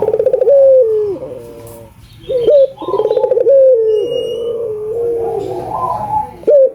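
Barbary doves (albino burung puter) cooing: three loud coo phrases, each a quick throbbing run that slides into a long falling note.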